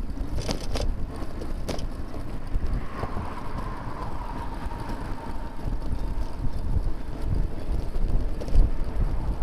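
Wind rumbling on a bicycle-mounted camera's microphone while riding, with a few sharp clicks in the first two seconds. A faint high tone comes in about three seconds in and slowly drops in pitch.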